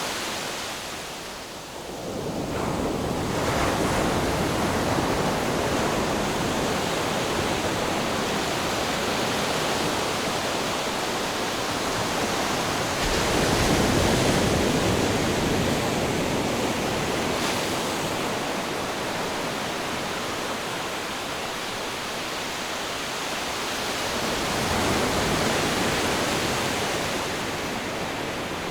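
Ocean surf: a continuous rushing wash of waves that swells and eases as each set comes in, loudest three times, shortly after the start, about halfway through and near the end.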